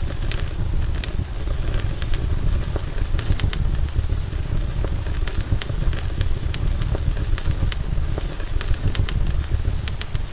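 Campfire burning: frequent irregular sharp crackles and pops of burning wood over a steady low rumble.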